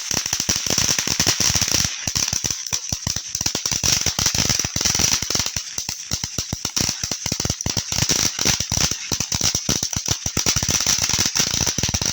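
A consumer firework going off: a dense run of rapid crackling pops over a steady hiss, ending suddenly after about twelve seconds.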